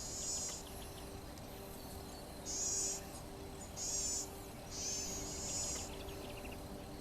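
Crickets or similar insects trilling in short, very high-pitched bursts of about half a second, five of them spaced a second or so apart, over a steady background of faint ticking and hiss.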